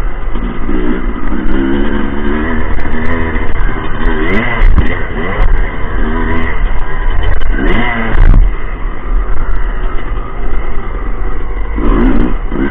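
Motocross motorcycle engines revving hard, their pitch climbing and dropping again and again as the bikes accelerate, shift and go past.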